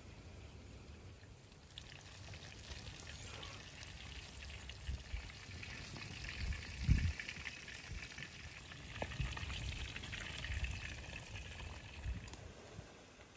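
Slices of eggplant sizzling as they fry in hot oil in a wide iron pan over a wood fire. The sizzle starts about two seconds in, with a few dull low knocks; the loudest knock comes about seven seconds in.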